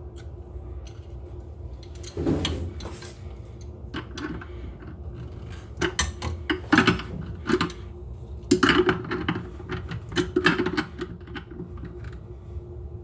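Small channel-lock pliers working on a faucet's plastic mounting nut: irregular sharp clicks, knocks and scraping as the jaws grip, slip and reset on the nut, in bunches through the middle and later part.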